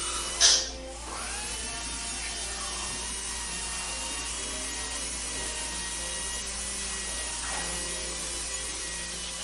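Dental office ambience: a dental drill's steady high whine over a low hum. Its pitch rises and settles about a second in and shifts again near the end. A short, sharp noise about half a second in is the loudest moment.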